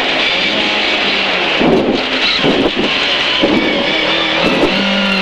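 Lada VFTS rally car's four-cylinder engine running hard, heard from inside the cabin, its note breaking about two seconds in and then shifting in pitch.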